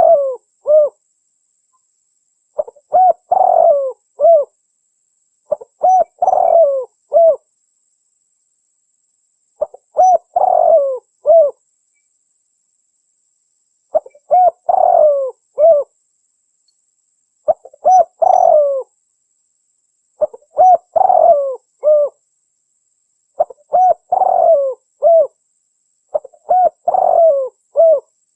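Spotted dove (tekukur) cooing: a repeated phrase of several rounded coos, each phrase about a second and a half long, coming about every three seconds. This is a recorded lure call used to draw in wild spotted doves.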